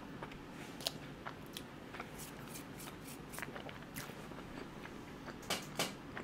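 Close-miked chewing of a cream-filled croissant: soft, wet mouth clicks and smacks at an uneven pace, with two louder smacks about five and a half seconds in.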